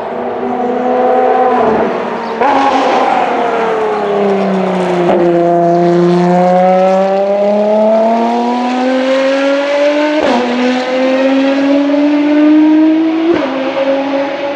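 Racing car engine at the track, its pitch falling as the car slows, then climbing under acceleration and dropping sharply at three upshifts about three seconds apart.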